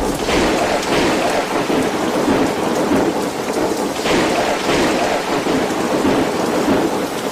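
Heavy rain pouring down in a storm, a steady, dense rush of noise.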